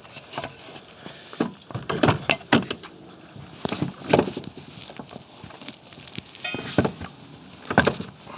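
Irregular knocks and clunks as a heavy trolling motor is lifted and set into its mount on the boat, with a brief squeak a little past the middle.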